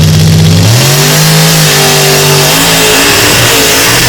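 Mud bog truck's engine running loud at full throttle, its pitch jumping higher about a second in and holding there as it powers through the pit.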